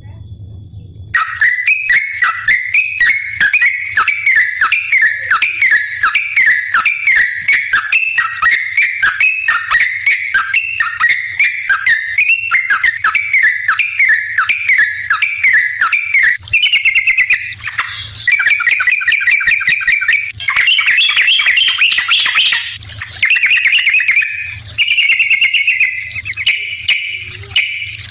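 Yellow-vented bulbul (trucukan) singing: a continuous run of quick, repeated, downward-sliding notes. After about sixteen seconds the song turns into denser, faster phrases broken by short pauses.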